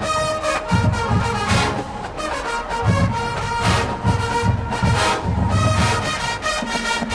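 Marching band playing: brass horns holding loud chords over rhythmic drum hits, with crashes every second or two.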